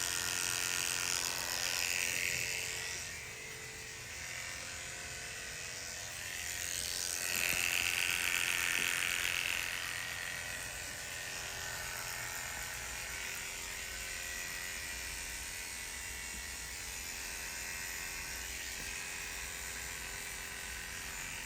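Electric hair clippers running with a steady buzz as they shave the scalp, louder for two stretches of a few seconds each.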